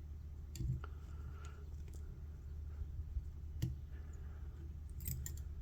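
A few faint, scattered clicks and taps from small fly-tying tools and thread being worked at the vise during a whip finish, over a steady low hum.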